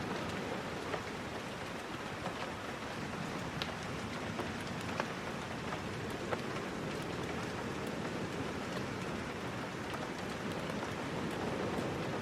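Steady rain falling, with scattered sharp ticks and pops.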